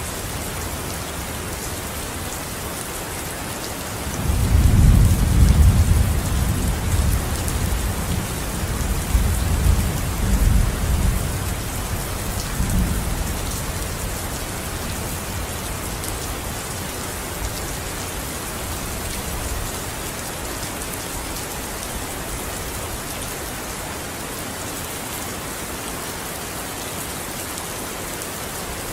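Steady rain falling, with a roll of thunder that breaks in suddenly a few seconds in, rumbles on in several swells for about ten seconds and fades away.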